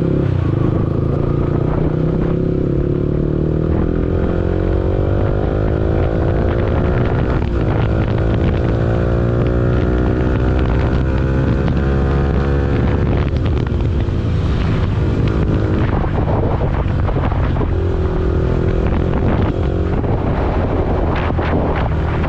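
Yamaha R15 V4's 155 cc single-cylinder engine accelerating under load, its pitch rising steadily for about ten seconds before dropping at a gear change and running on more evenly.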